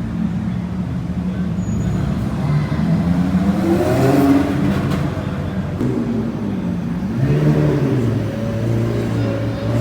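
Sports car engines running and revving as the cars pull in, the pitch rising and falling a few times.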